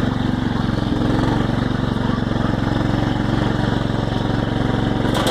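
A small tractor engine running steadily at an even speed while the tractor is driven.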